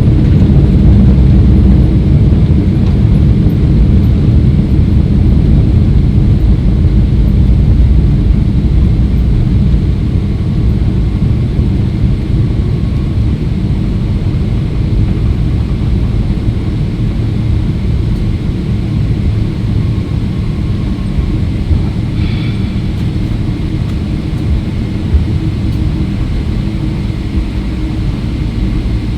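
Loud, steady low rumble of a Boeing 777-300ER heard from inside the cabin during the landing, easing off somewhat about ten seconds in as the airliner slows.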